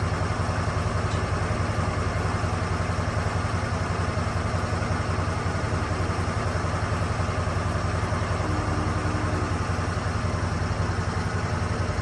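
Engine of a Lucas Mill 10-30 swing blade sawmill running steadily at low throttle, a fast even pulsing with no change in speed.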